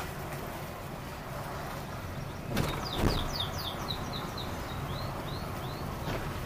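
A bird calls a quick run of about a dozen short, high, falling chirps, starting about two and a half seconds in. Two knocks come as the run begins. Under it all is a steady low background rumble.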